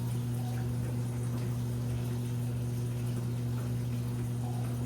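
Washing machine running: a steady low hum with water sounds over it.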